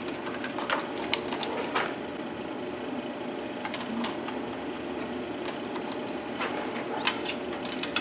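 Scattered sharp clicks and light knocks of small parts and wire connectors being handled during wiring work, over a steady background hum.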